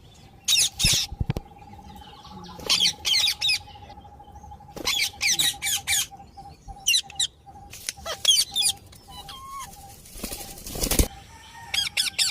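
Parrot giving shrill, chattering calls in quick clusters of three to five notes, repeated every second or two. About eleven seconds in there is a short, loud, noisy rush.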